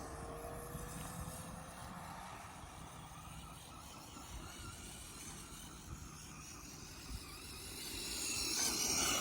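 Radio-controlled model car running round a track, a high-pitched motor whine that grows louder near the end as the car comes close.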